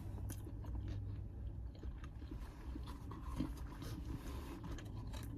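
A person chewing and biting food close to the microphone, with small crunches and scrapes at irregular intervals, over a steady low hum.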